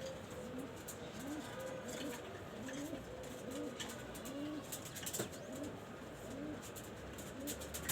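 Pigeons cooing: a run of low, repeated coos, about two a second, with scattered sharp clicks and taps.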